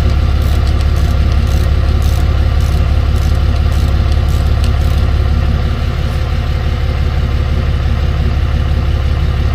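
Tow truck's engine idling steadily, a loud low drone, with a few faint light clicks in the first half.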